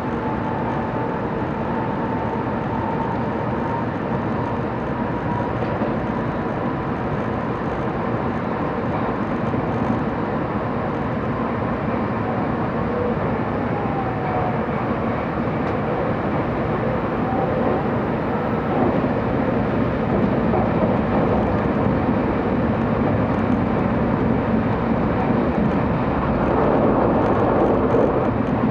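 Running noise of a 700 series Shinkansen heard from inside a passenger car: a steady rumble and rush from the wheels and bodywork, getting a little louder near the end.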